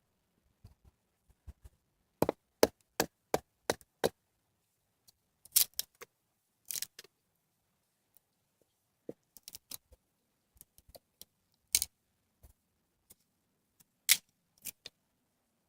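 Sharp cracks and knocks of wood being worked by hand. A quick run of five strikes comes about two a second, then scattered single and double cracks with pauses between them.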